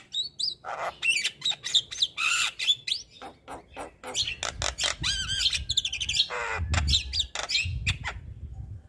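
Male Javan myna (jalak kebo) singing a rapid, varied run of chirps, clicks, quick whistles and harsh squawky notes, with a low rumble partway through.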